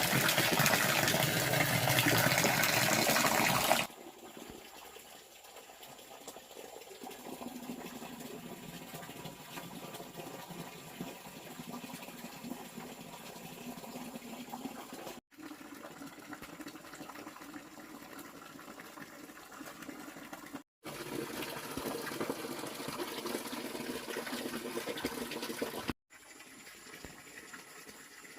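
Water running and splashing, loud for the first four seconds and then quieter, with abrupt cuts between stretches.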